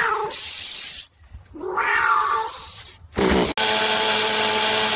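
A cat meows twice, with a hiss between the cries. About three and a half seconds in, a chainsaw starts and runs at a steady buzz.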